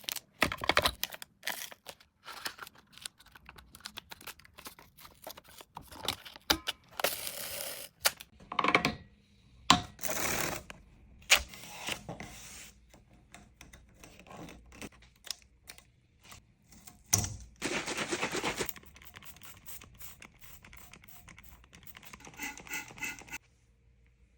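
Hand work on a golf club grip: a run of sharp clicks, knocks and scrapes, broken by three longer tearing, rasping noises of about a second each. Near the end it stops abruptly.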